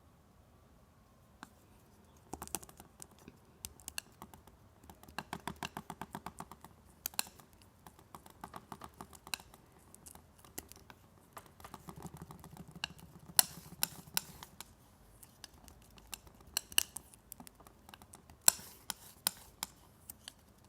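Green and cadmium yellow paint being mixed on a palette: the mixing tool makes runs of quick clicking taps and scrapes, with a few sharper clicks.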